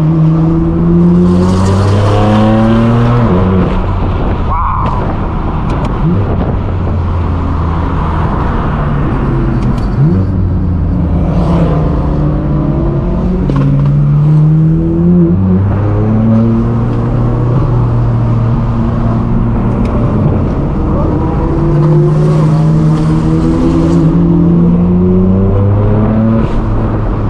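Straight-piped BMW M4 F82's twin-turbo inline-six exhaust accelerating hard: the engine note climbs and then drops back at each shift, over and over through the gears, with a few sharp pops.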